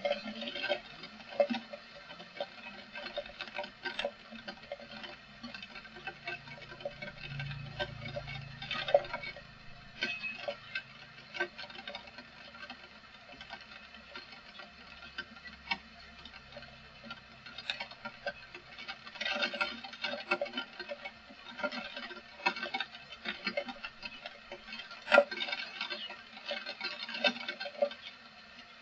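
Heavy rain pattering, with many irregular drops striking hard surfaces close by.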